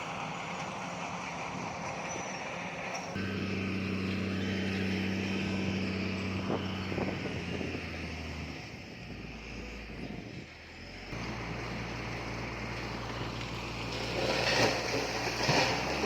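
Heavy diesel construction machinery running, the engine note changing abruptly a couple of times. Loud irregular knocking and clattering from about two seconds before the end.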